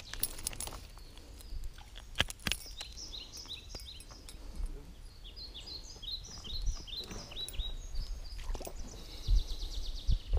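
A small bird calling a rapid run of short, falling chirps, starting about two and a half seconds in and lasting several seconds. A few sharp clicks come early on and low thumps come near the end, over a low rumble.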